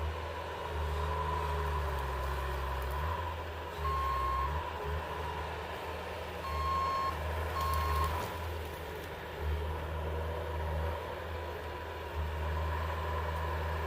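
A vehicle engine running with a low, rising and falling rumble, and three short beeps of a reversing alarm a few seconds in.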